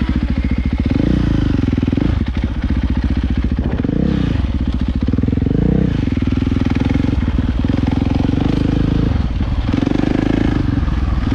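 450cc dirt bike engine running under throttle on the trail, its revs climbing and dropping several times.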